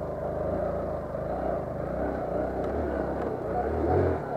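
Motorcycle engine running at low speed, its pitch rising and falling with small throttle changes, and swelling briefly near the end.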